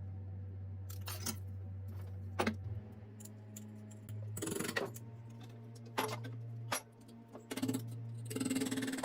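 Small metal parts clinking and rattling as they are handled: several separate clicks, a longer jingling clatter about halfway, and another near the end, over a steady low hum.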